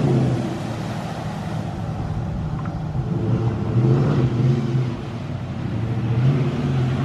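Vehicle engine running as it drives through floodwater, the engine note swelling and easing off a couple of times.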